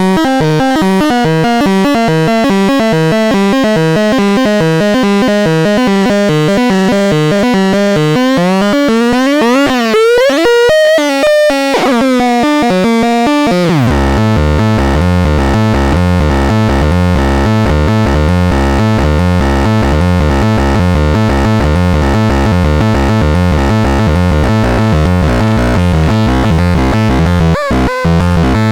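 Electronic synthesizer sound demo: dense sustained tones with sweeping pitch glides that pull together about ten seconds in. About fourteen seconds in it switches abruptly to a lower, evenly pulsing repeated pattern.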